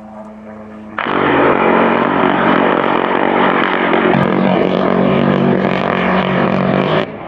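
Military helicopter running close by, its engine and rotor noise steady. It jumps suddenly much louder about a second in and falls back abruptly near the end.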